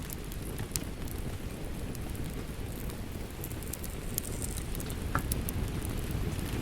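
Wood fire crackling in a fireplace, with scattered sharp pops over a steady low rush of rain.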